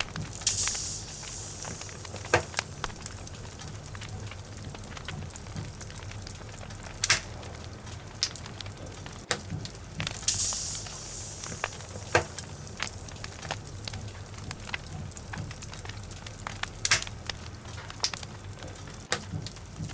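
Logs burning in a fireplace, crackling with irregular sharp pops and snaps, a few of them loud. Two short bursts of high hissing come near the start and about halfway through, over a steady low rumble.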